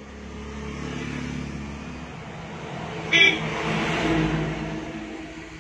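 A motor vehicle going by, its noise building and then fading, with a short high-pitched sound about three seconds in.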